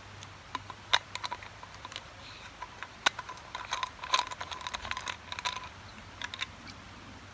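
Small hard-anodized aluminium camping pot clinking and knocking against a folding metal wood stove as it is shifted into place. There is an irregular run of sharp clicks, each with a brief metallic ring, and they come thickest in the middle.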